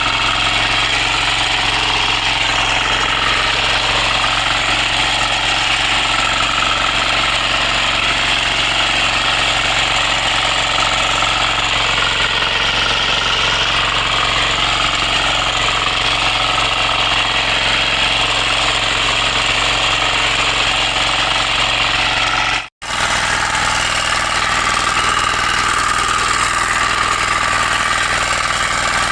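9.5 hp power weeder's engine running steadily at a constant speed, with a fast, hard beat. There is a momentary gap about two-thirds of the way through.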